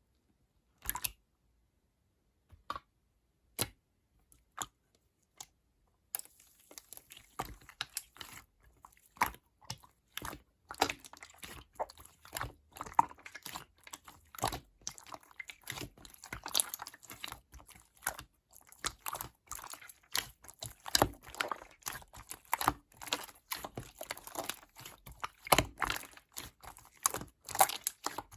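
Slime being squeezed and pressed by hand, making small sticky pops and crackling clicks: a few scattered ones at first, then a dense, continuous run from about six seconds in.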